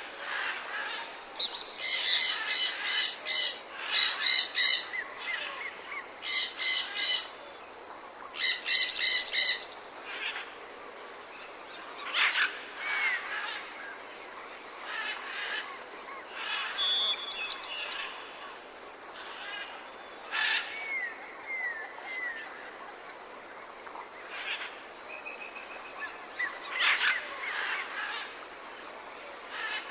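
Birds calling. Four loud bursts of rapid chattering come in the first ten seconds, followed by scattered chirps and short whistles over a faint steady hiss.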